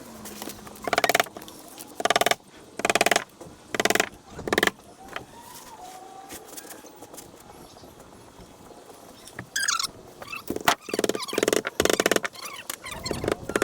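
A handheld power tool runs in short bursts of under half a second each: about five spaced bursts in the first five seconds, then a quicker string of them from about ten seconds in.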